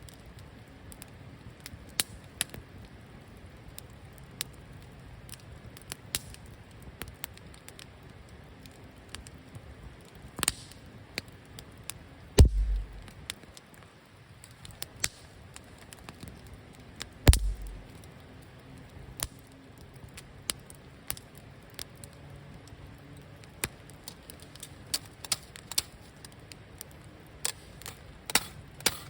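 Wood fire crackling, with scattered sharp pops and two louder knocks, one about twelve seconds in and one about seventeen.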